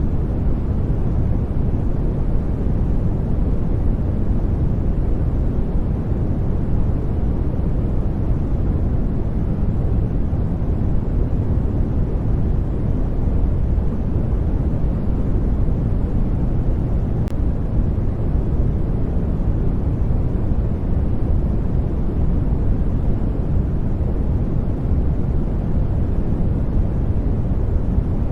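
Steady sleep-aid noise track: an even, unbroken rumbling hiss, strongest in the bass and soft in the treble, with no change in level.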